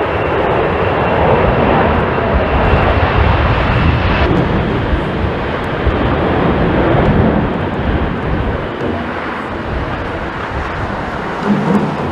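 Jet airliner's engines heard as a loud, steady rushing noise, with a thin high whine that cuts off about four seconds in.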